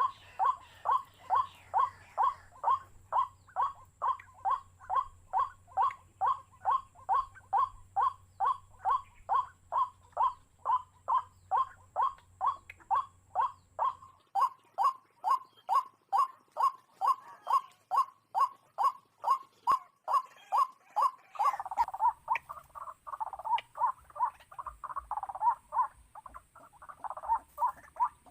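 Waterhen calling: a short call repeated steadily about twice a second. About three-quarters of the way through the calls turn less regular and mix with a rougher, scratchy noise.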